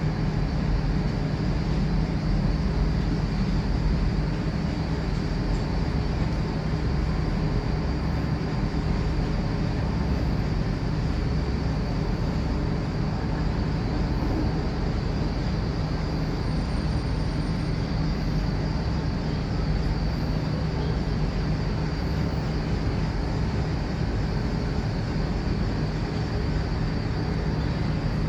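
Steady, even machinery rumble with a low hum running through it, unchanging throughout.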